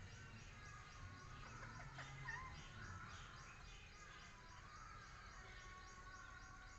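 Faint parrot chirps and short whistles, a few scattered calls over a steady background hiss with a fast, regular high ticking.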